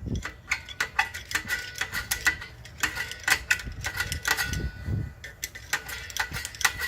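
Star-wheel adjuster of a 2007 Toyota Camry's rear parking-brake shoes being turned with a tool, clicking repeatedly, about three or four clicks a second, each with a short metallic ring. The shoes are being adjusted outward, tightening toward the drum.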